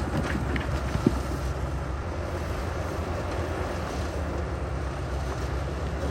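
Heavy diesel earthmoving machinery running steadily with a low engine rumble, with one sharp knock about a second in.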